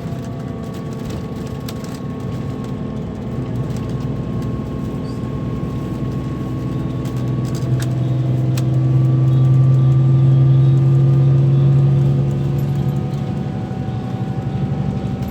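Scania K340 coach engine running under way, steady. Its pitch drifts slightly down, then climbs slowly through the second half. It gets louder for a few seconds past the middle.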